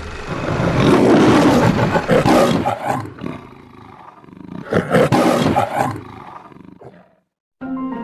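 MGM logo lion roaring twice, the second roar about five seconds in. The sound cuts to silence for a moment, and music starts near the end.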